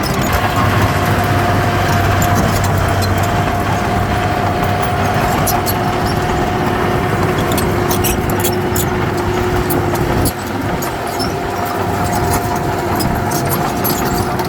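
Heavy diesel earthmoving machine working, its engine running steadily with a high whine held over it and scattered light clicks and clatter. The sound drops a little, suddenly, about ten seconds in.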